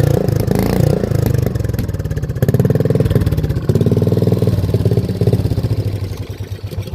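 A small single-cylinder mini bike engine running and revving, with clanking from its chainless drive sprocket spinning freely because the chain has broken. The engine winds down near the end.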